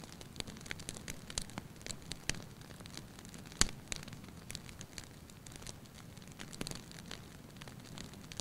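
Wood fire in a fireplace crackling, with irregular sharp pops and snaps over a soft low rumble of flames; one loud pop comes about three and a half seconds in.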